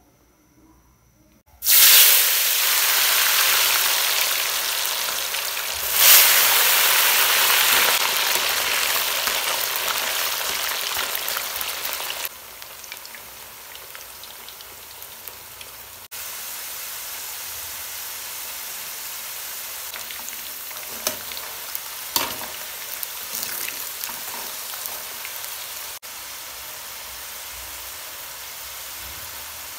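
Potato fries deep-frying in oil in a steel pan. A loud sizzle starts suddenly about two seconds in and surges again about six seconds in. It then settles into a quieter, steady frying sizzle as the chips cook, with a couple of short clicks partway through.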